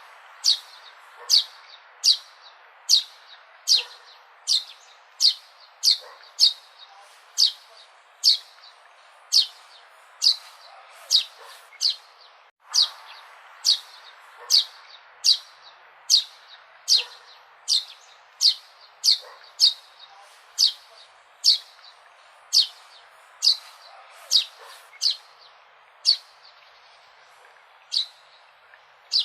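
A bird chirping over and over, about one short, sharp, high chirp a second, each one falling quickly in pitch. The chirps space out a little near the end.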